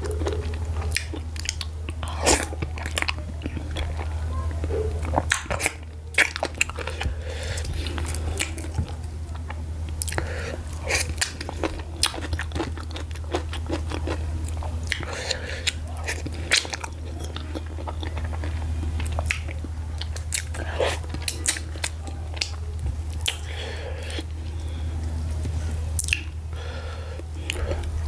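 Close-miked eating by hand of garri fufu with slimy ogbono soup: chewing, wet lip smacks and sharp mouth clicks, one after another. A steady low hum runs underneath.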